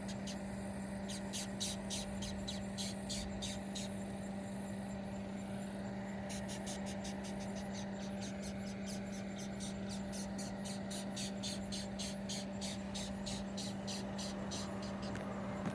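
White-lined chafer beetle (Polyphylla albolineata) stridulating in response to being touched: short, dry squeaks, a few scattered at first, then an even run of about three a second from around six seconds in.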